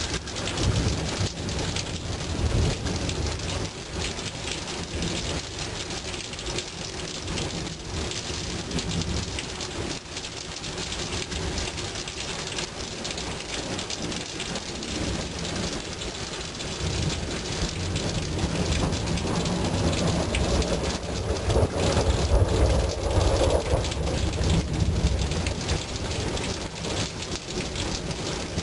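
Steady heavy rain falling during a thunderstorm, with low rolling thunder rumbling under it, building up in the second half and loudest about three quarters of the way through.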